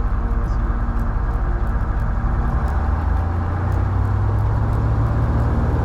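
Cessna 172H's six-cylinder Continental O-300 engine running, heard inside the cockpit as a steady low drone. The low end strengthens about three seconds in as power comes up for the takeoff roll.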